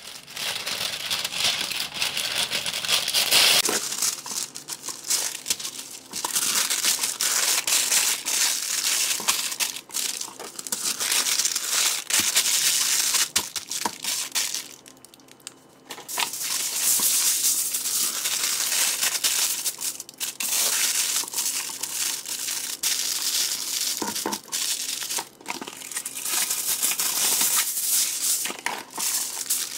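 Parchment paper crinkling and rustling as it is folded and wrapped tightly around portions of seitan dough, in repeated bursts with a short pause about halfway through.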